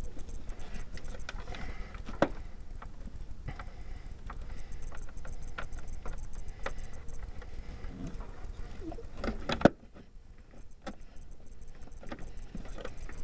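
Hand tools and hardware clinking and clicking against metal as nuts and bolts are fitted by hand with a wrench and socket, with a louder knock about two seconds in and another near ten seconds. A low background hum drops away just after the second knock.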